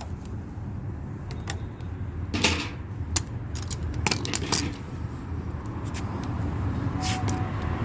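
Scattered sharp clicks and short metallic clatters over a steady low rumble.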